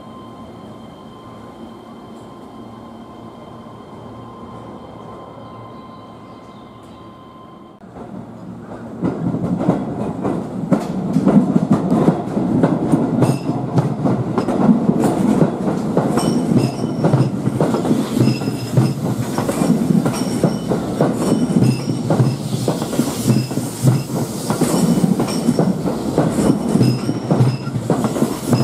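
Keihan 13000-series electric train: a steady whine while it stands for about the first eight seconds, then its cars run past over the points, wheels clacking over the rail joints and squealing intermittently on the curve.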